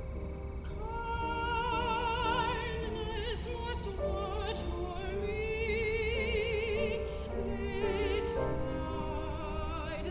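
Classical soprano singing long held notes with wide vibrato over piano accompaniment.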